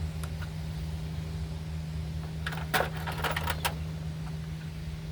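A quick clatter of small hard parts being handled, a run of sharp clicks and rattles lasting about a second around the middle, over a steady low hum.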